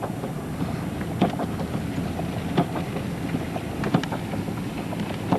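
Steady engine and road noise heard inside a moving minivan, with a short knock repeating about every second and a half.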